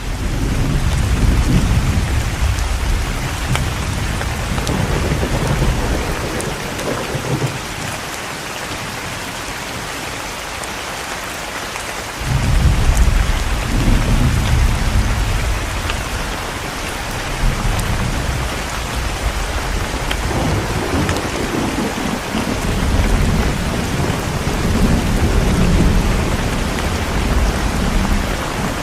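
Steady heavy rain with thunder rolling through it in long, deep rumbles. One peal breaks in suddenly a little before halfway and rolls on for several seconds.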